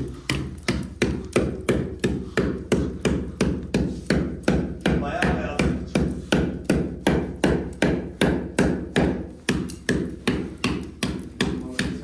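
Hammer striking a painted wall over and over at a steady pace of about three blows a second, chipping and scarring the paint so the new coating will grip; the blows stop at the very end.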